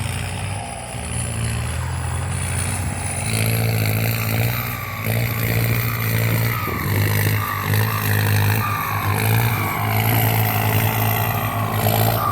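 Kubota M8808 tractor's diesel engine running, with a low, uneven throb that swells and dips about once a second and a thin high whine above it.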